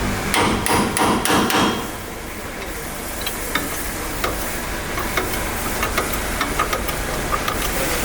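Hammering: a quick run of about five hard strikes in the first two seconds, then scattered lighter taps.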